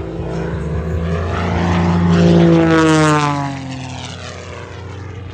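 Extra 330 aerobatic monoplane's piston engine and propeller on a fast pass. The engine grows louder to a peak about two to three seconds in, then its pitch drops sharply as the plane goes by and fades away.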